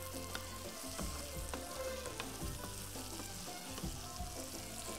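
A stuffing of onions, pulses and potato sizzles as it fries in an aluminium pan on a gas burner. A wooden spoon stirs it, scraping and knocking against the pan now and then.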